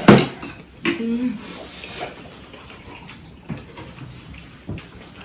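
Eating sounds close to the microphone: a loud noisy burst at the start, small clicks and mouth noises, and a short vocal sound about a second in.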